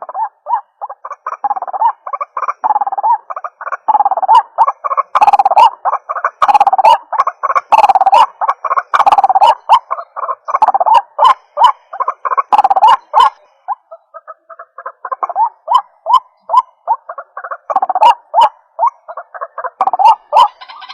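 White-breasted waterhen (ruak-ruak) calling, a rapid run of repeated croaking notes, broken by a short lull about fourteen seconds in. It is a lure call for drawing the birds in.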